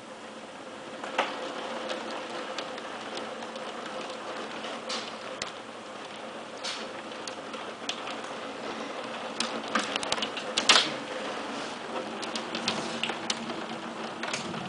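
Hailstones of about 1–2 cm striking hard surfaces in irregular sharp clicks and knocks over a steady hiss of rain, with a cluster of louder hits around ten seconds in.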